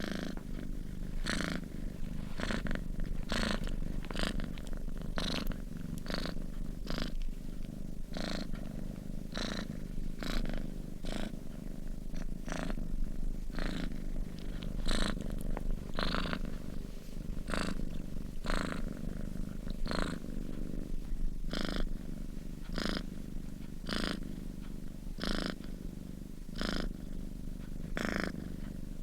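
Domestic cat purring steadily in its sleep, a continuous low rumble with a brief breathy rasp about three times every two seconds.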